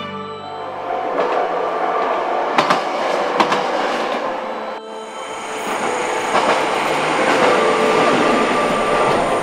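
Kyoto Tango Railway train running past on the track, its wheels clacking sharply over rail joints twice a few seconds in. The sound cuts off abruptly about halfway and gives way to another passing train.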